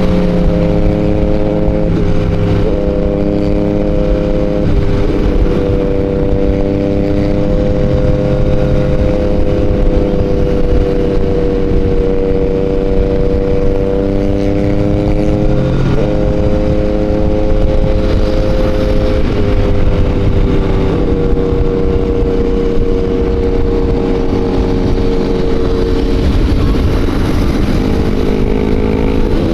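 Motorcycle engine running at a steady cruising speed, heard from on the bike over heavy low wind rumble. The engine pitch holds fairly level, with a few brief dips and recoveries.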